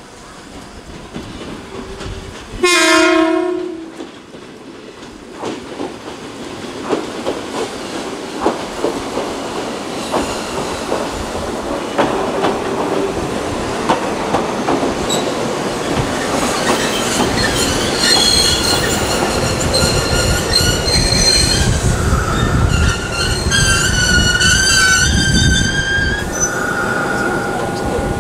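Former Kintetsu 16000 series electric train sounds its horn once, for about a second, then rolls in with wheels clicking over rail joints. It grows louder, and a high, wavering squeal sets in over the second half as it slows to a stop.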